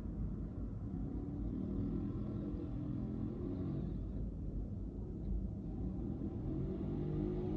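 Steady low rumble of a car being driven, its engine and tyre noise on the road.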